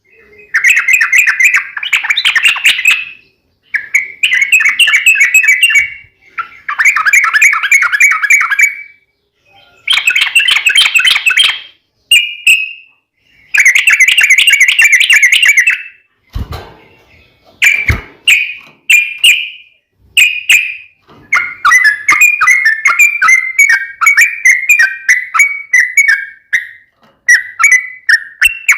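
Yellow-vented bulbul (trucukan) singing in loud bursts of rapid, bubbly chattering notes, each phrase lasting one to three seconds with short pauses between. Past the middle comes a longer unbroken run of quick notes, the long 'ropel' fighting song. Two brief low knocks come just before the long run.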